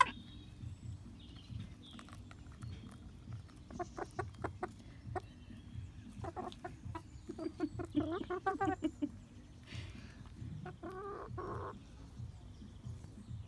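Hybrid laying hens clucking, with a quick run of clucks in the middle and a longer call about two thirds of the way in, among short sharp taps as they peck at a hanging banana.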